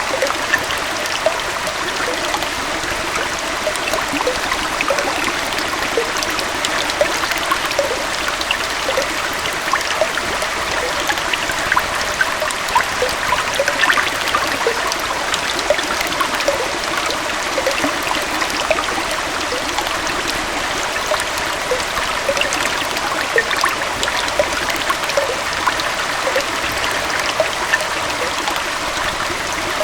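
Small forest waterfall and stream flowing steadily, an even rush of water dotted with constant small splashes and trickles.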